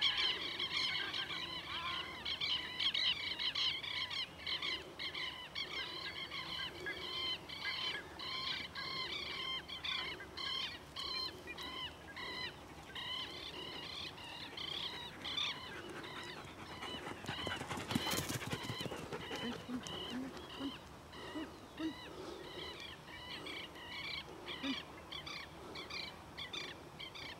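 Birds calling over and over in short, rapid, chattering calls, with a brief rush of noise about two-thirds of the way through.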